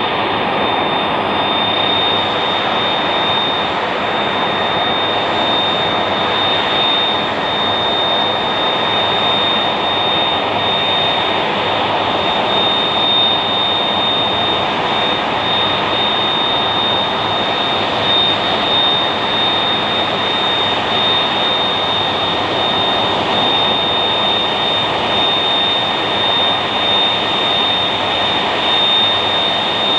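Lockheed C-5M Super Galaxy's General Electric F138 turbofan engines running steadily on the ground: a constant jet roar with a piercing high whine held at one pitch.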